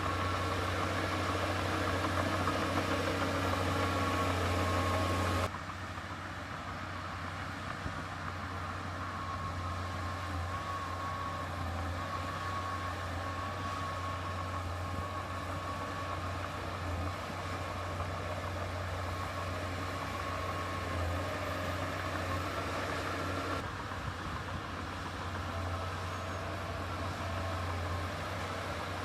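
Heavy diesel engine running steadily with a deep low hum and a thin whine above it; the sound drops abruptly about five seconds in and changes again near the end.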